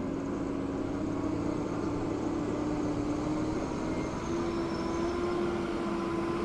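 A motor running steadily with a humming tone that steps up slightly in pitch about four seconds in.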